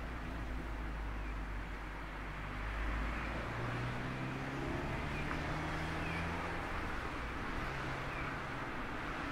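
Mazda ND Roadster's four-cylinder engine running on the move, with steady wind and road noise; about three seconds in the engine note steps up in pitch.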